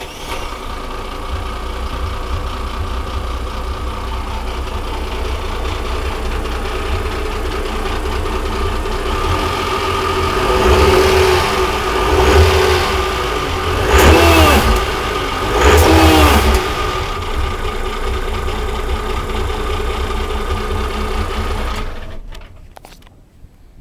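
Morning Star 36 boat's engine running at idle, revved up four times, the last two as sharp blips whose pitch falls back to idle. The engine is shut off about 22 seconds in.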